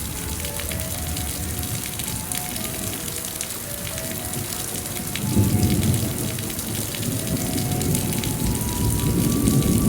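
Steady rain falling, with a soft melody of short held notes laid over it. A low rumble grows louder about five seconds in.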